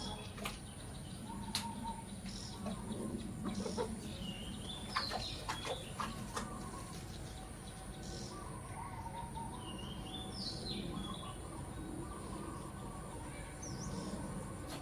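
A bird repeating the same short stepped call about every six seconds, over a steady high whine. Scattered sharp clicks and knocks come in the first half.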